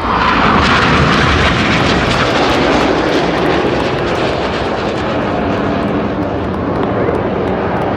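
A formation of BAE Hawk T1 jets flying past low, each with a Rolls-Royce Turbomeca Adour turbofan: a loud jet roar that swells suddenly at the start and slowly eases away.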